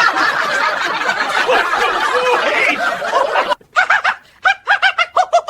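Several people laughing together in a loud, dense burst; at about three and a half seconds it breaks off into one person's rhythmic 'ha-ha-ha' laughter, about three or four bursts a second.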